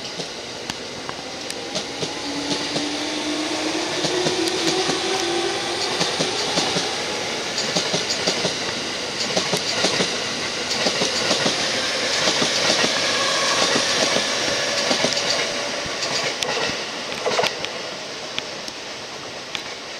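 E231 series electric commuter trains running past: steady rumble with wheels clacking over rail joints, and a rising motor whine about two seconds in as one picks up speed.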